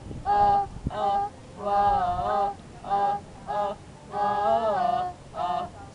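Voices singing a wordless 'whoa-oh' refrain in a string of short phrases with brief gaps, the longer held notes wavering with vibrato.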